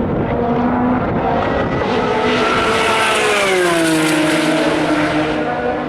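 Race car passing at speed on the circuit: its engine note rises to a rush and falls in pitch as it goes by, over the steady hum of other cars running.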